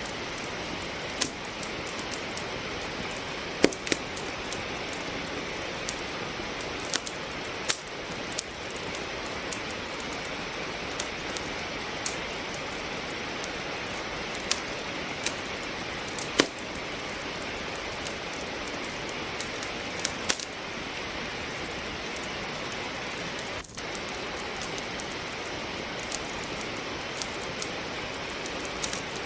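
Steady hiss of falling rain with irregular sharp pops and crackles of firewood burning in a fireplace, a few of them much louder than the rest.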